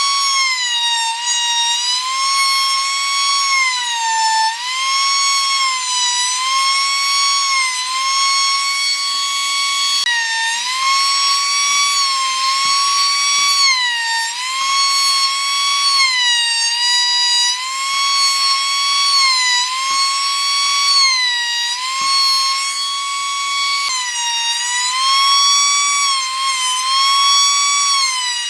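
High-speed electric power tool running with a steady high-pitched whine, its pitch dipping briefly every few seconds as it is pushed into the wood and bogs down, then recovering.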